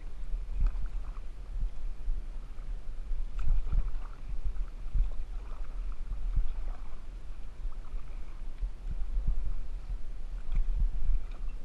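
Kayak being paddled: irregular paddle splashes and light knocks over a steady low rumble.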